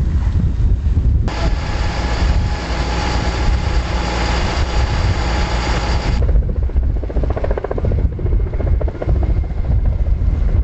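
Helicopter flying nearby, its fast rotor beat clearest in the second half, under heavy wind rumble on the microphone. A loud hiss cuts in about a second in and stops abruptly halfway through.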